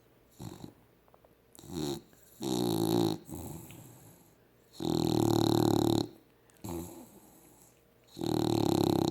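Dog snoring while asleep: a run of separate pitched snores, a few short ones between three longer, louder ones of about a second each.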